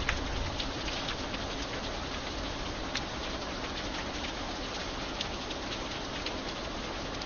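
Steady light rain falling, a constant hiss with scattered sharper drops ticking now and then.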